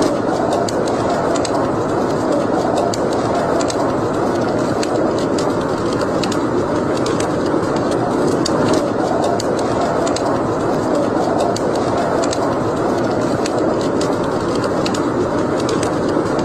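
Wood fire burning in a fireplace: a steady rushing sound with frequent, irregular sharp crackles and pops.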